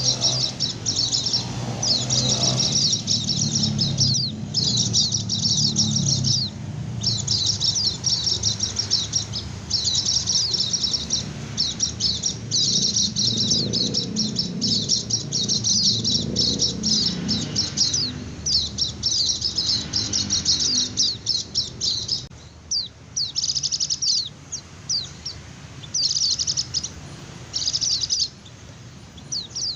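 White-eye (pleci) singing its rapid, run-on twittering song known as ngecir, in high bursts of one to three seconds with short breaks. Over the last several seconds the bursts become shorter and choppier.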